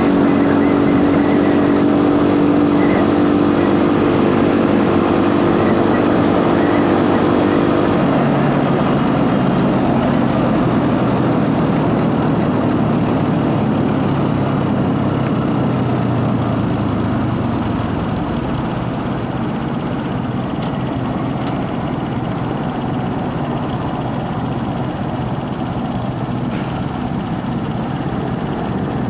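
Motorcycle engine running steadily, with chain and intake noise in the mix. About eight seconds in the note drops suddenly to a lower, steady pitch, and the sound eases off slightly.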